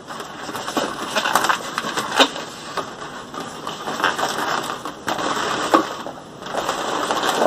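Inflated latex balloons being handled and twisted by hand, rubbing against each other with irregular sharp clicks and rustling.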